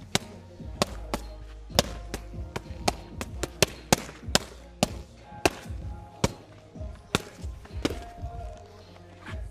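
Strikes landing on kickboxing pads, sharp slaps about one to two a second at an uneven pace, over background music.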